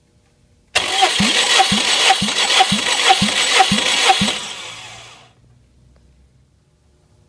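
Starter motor cranking a Subaru EJ201 2.0-litre flat-four engine for a compression test, with about seven even compression pulses, roughly two a second. It stops after about three and a half seconds and winds down.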